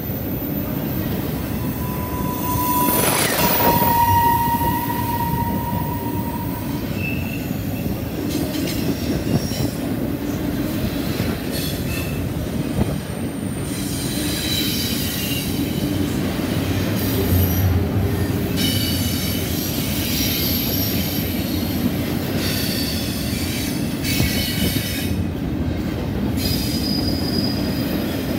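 CSX double-stack intermodal freight train's well cars rolling past close by: a steady rumble of steel wheels on rail, with high wheel squeals that come and go. The longest squeal starts about a second in and lasts several seconds; shorter, higher squeals follow later.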